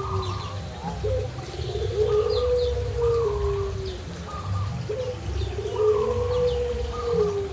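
A dove cooing: twice, a short note followed by a long, wavering coo that slowly falls in pitch. Small birds give short high chirps throughout.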